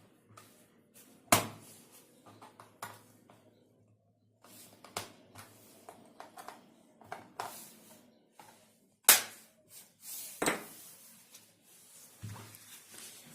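Sharp clicks and knocks of a laptop's plastic case parts being handled and pressed into place during reassembly, with the loudest knocks about a second in and near the end.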